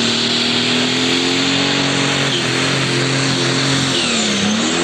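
Pro Stock pulling tractor's turbocharged diesel engine running hard at high, steady revs under a loud hiss. Its pitch sags briefly near the end, then climbs back.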